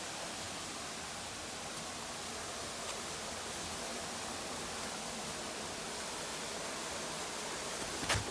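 Steady rush of flowing water from a mountain creek and its waterfalls, with a sharp click near the end.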